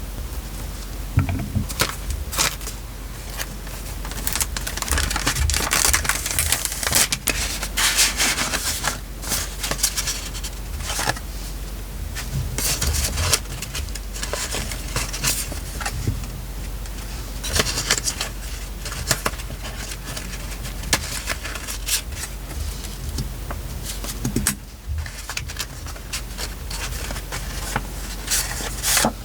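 Hands working paper on a journal page: rustling and scraping with many small clicks and taps.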